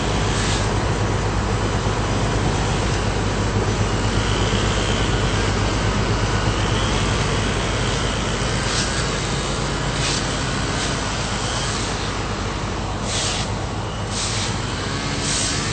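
An engine running steadily with a low drone, with several short hissing bursts in the last few seconds.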